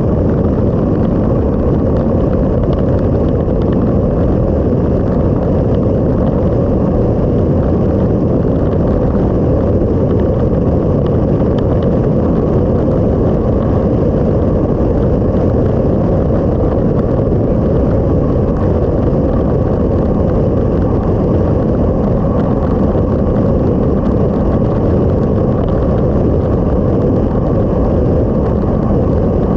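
Motorcycle on the move at steady speed: a loud, even rumble of wind and road noise on the bike-mounted camera's microphone, with no clear engine note standing out.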